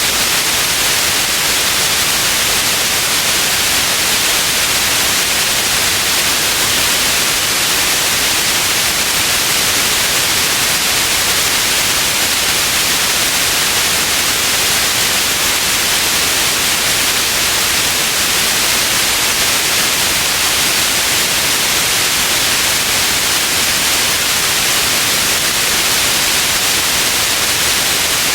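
Steady white noise: an even, unchanging hiss, bright and strongest in the upper range, with no other sound.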